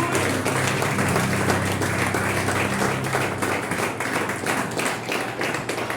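Congregation applauding: dense, continuous clapping, with a low held instrument note underneath that fades out about three seconds in.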